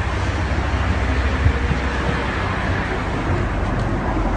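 Airliner cabin noise in flight: a steady rumble and rushing hiss from the engines and airflow, even throughout.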